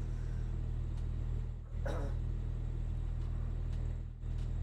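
Boat's inboard engine running steadily with a low hum, heard from inside the cabin under way. A brief yelp-like call sounds about two seconds in.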